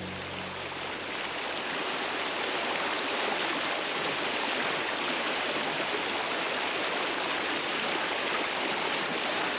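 Steady rush of moving water, an even hiss without pitch or rhythm.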